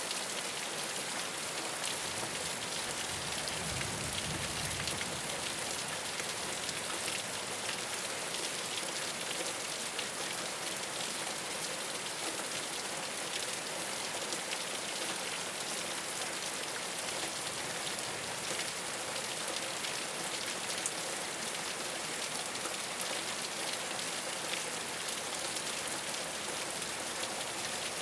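Steady rain falling on a rooftop: an even, dense hiss of many small drop ticks. A faint low rumble comes and goes about four seconds in.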